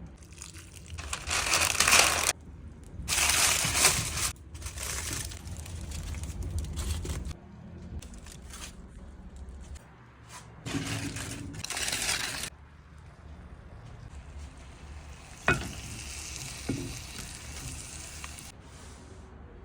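Hot meat casserole sizzling, coming and going in loud bursts of one to three seconds, with a sharp knock about fifteen seconds in.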